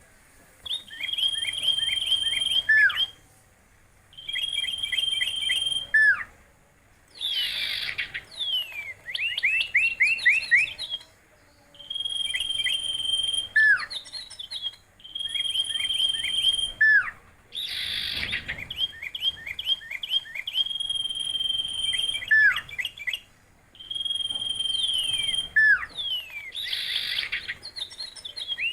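A songbird sings repeated phrases of rapid high chirps and a held high note, each ending in a falling slur, with short pauses between. About three times it gives a harsher, rasping call instead.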